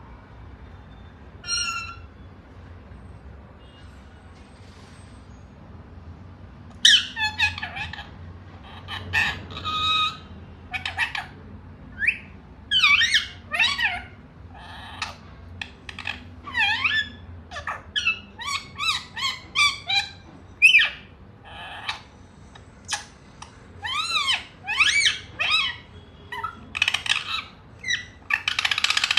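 A pet rose-ringed parakeet calling: one short call about two seconds in, then from about seven seconds a long run of quick squawks and squeaks that swoop up and down in pitch.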